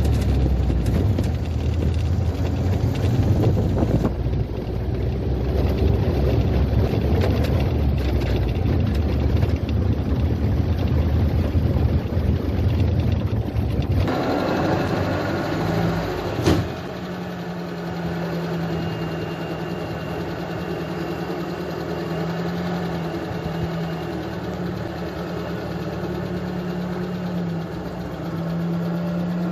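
UAZ off-roader engine running with a heavy rumble. About halfway through, the sound drops abruptly to a quieter, steadier running with a steady hum, and a single sharp click follows shortly after.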